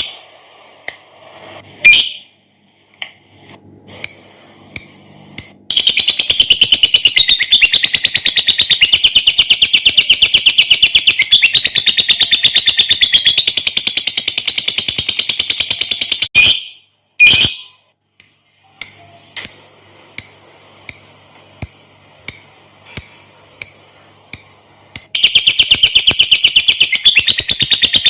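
Lovebird singing its long 'ngekek' chatter: a rapid, high-pitched stream of chirps that runs unbroken for about ten seconds, then breaks into single sharp chirps about once a second, before the fast chatter starts again near the end.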